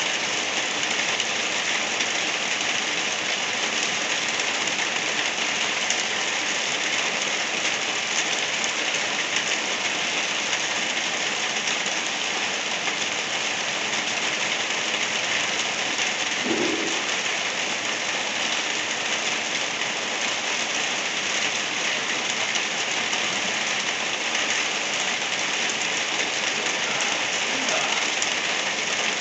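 Gentle rain falling steadily, an even, continuous hiss of drops with no let-up.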